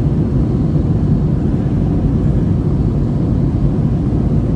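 Steady low cabin rumble of an airliner in flight, from its engines and the airflow.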